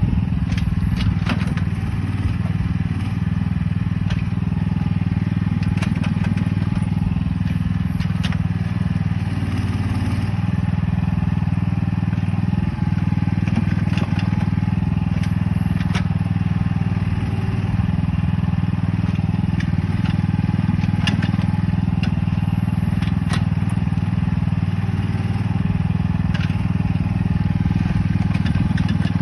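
BlueBird Mex 600 mini excavator's engine running steadily, with frequent sharp knocks and clanks over it.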